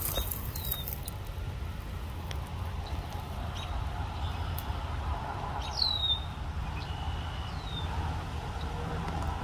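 Wild bird calling: a few short, thin chirps that glide downward in pitch, the loudest about six seconds in, over a steady low rumble.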